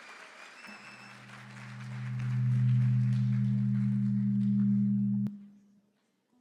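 Applause dying away while a low electrical hum from the stage sound system swells up, holds steady and loud, then cuts off with a click about five seconds in.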